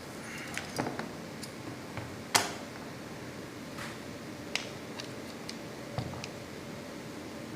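A string of small, sharp clicks and taps from handling the opened hand grinder's parts, irregularly spaced, the loudest about two and a half seconds in, over a steady hiss.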